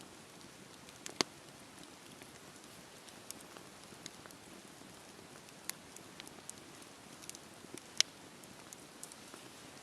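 Wood bonfire crackling: a soft steady hiss with sharp pops at irregular intervals, the two loudest about a second in and about eight seconds in.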